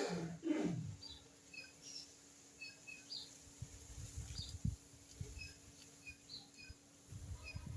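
Small birds chirping outdoors, with short high chirps scattered throughout. In the first second a louder sound slides down in pitch, and low rumbles come and go underneath.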